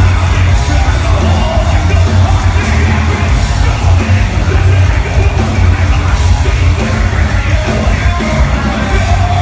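Live metalcore band playing loudly, with yelled vocals over a heavy, bass-heavy mix.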